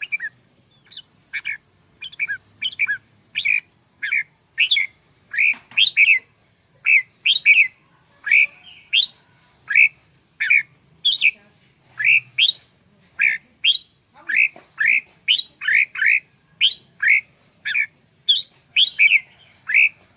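Red-whiskered bulbul calling in a steady run of short, sharp notes, about two a second.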